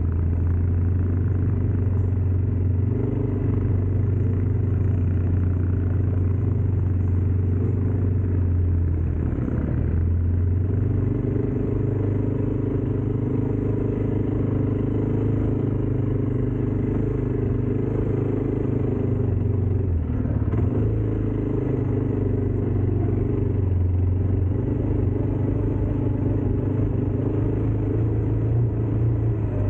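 ATV engine running under way, with a strong low drone whose pitch shifts up and down a few times as the speed changes.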